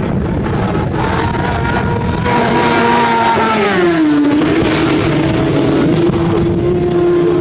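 Superbike racing motorcycle passing at speed. Its engine note gets louder about two seconds in, drops sharply in pitch as it goes by around four seconds in, then holds lower as it moves away.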